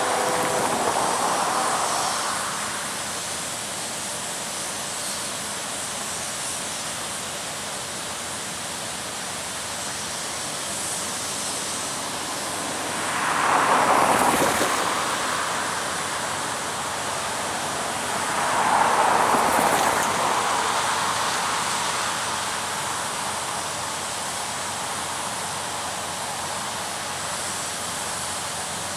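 A diesel locomotive horn chord cuts off at the very start, leaving a steady rushing noise that swells louder twice, about halfway through and again a few seconds later.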